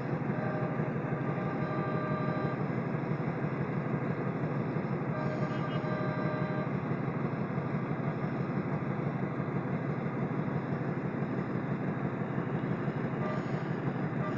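Steady engine and road noise of an old car moving in slow traffic, with a faint steady tone sounding briefly twice.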